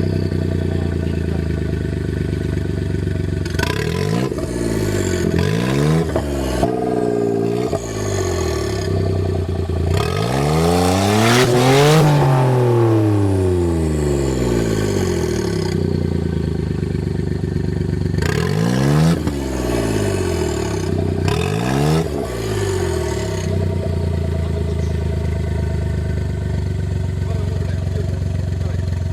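Suzuki Jimny JA11 off-road truck's engine being revved up and let back down again and again, with one long, high rev about the middle, then running steadily near the end.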